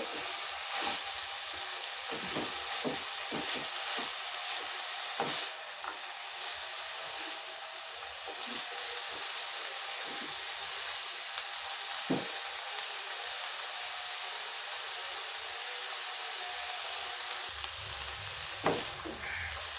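Chicken and vegetable stuffing of carrot, capsicum and cabbage sizzling in a hot pan as it is stirred. The spoon clicks and scrapes against the pan now and then over a steady frying hiss.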